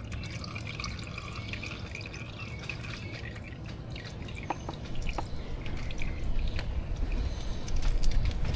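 Engine oil dripping and trickling from the open drain of a Yamaha Grizzly 600 ATV into a drain pan, with a few small clicks.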